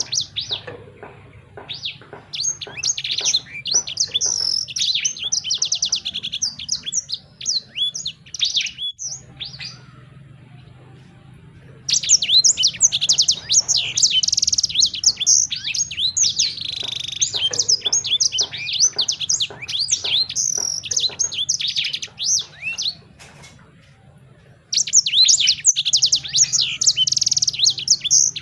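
Songbird singing fast, high-pitched chirps and trills in long bursts. The song breaks off for a couple of seconds about ten seconds in and again shortly before the end, then resumes.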